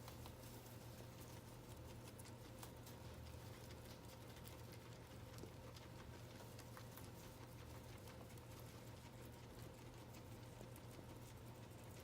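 Guinea pigs chewing and rustling through hay, a faint, irregular patter of small crunching clicks over a steady low hum.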